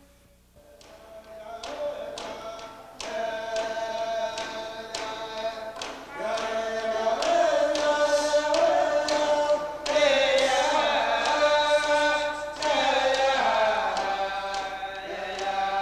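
Music of voices singing or chanting together over a steady, evenly spaced drumbeat. It fades in from near silence and grows louder about six seconds in.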